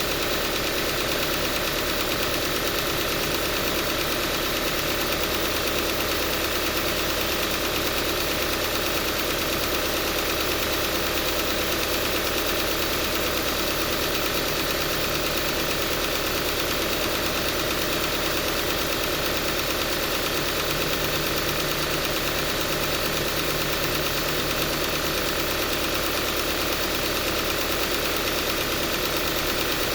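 Subaru Forester's CB18 1.8-litre turbocharged boxer four idling warm with a loud abnormal noise and a constant tappet-like ticking that does not go away. The owner takes it for a failed engine likely needing replacement.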